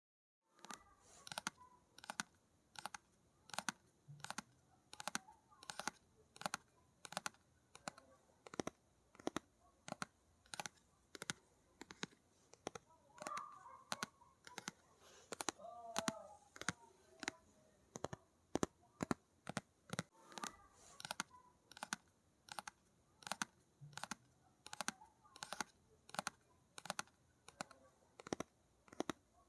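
Fingertips or fingernails tapping on a hard object at an even pace, about two taps a second, with a little faint scratching in the middle.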